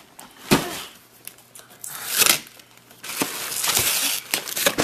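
Paper packaging being torn and crinkled by hand: two short sharp rips, then a longer stretch of rustling and tearing near the end.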